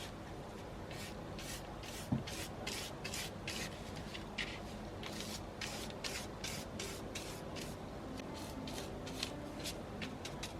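Stiff, splayed-tip bristle brush scrubbing acrylic paint onto a styrene-board miniature brick wall: a run of short scratchy strokes, roughly three a second. One knock about two seconds in.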